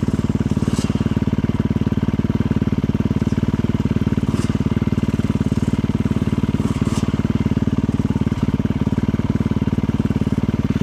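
Motorcycle engine running steadily at an even speed, with no revving, plus a few faint brief clicks.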